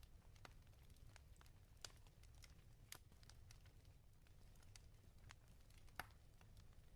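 Quiet wood fire crackling in a fireplace: irregular sharp pops and snaps over a low steady rumble, with one louder pop about six seconds in.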